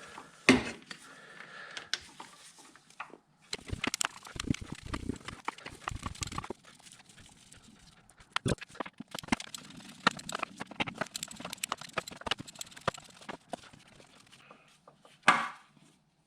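Clicking and clatter of hand tools undoing the small 10 mm bolts that hold a plate on a car engine, with a run of quick clicks in the middle and a sharp knock near the end.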